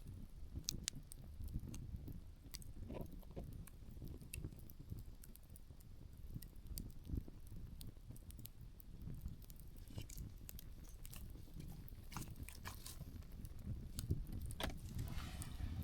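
Open wood campfire crackling, with irregular sharp pops from the burning firewood, over a low steady rumble of light wind.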